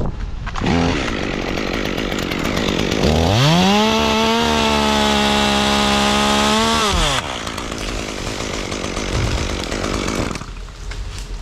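Chainsaw engine revving: a short blip about a second in, then it climbs to a steady high pitch about three seconds in, holds for some four seconds and drops back near seven seconds, with rougher running noise going on until near the end.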